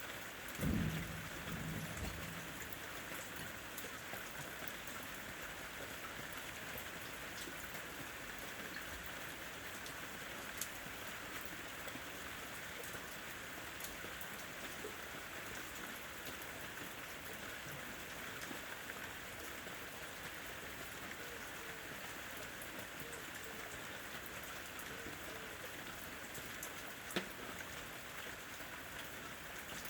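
Steady rain falling, with a few sharper drop clicks now and then and a brief low rumble about a second in.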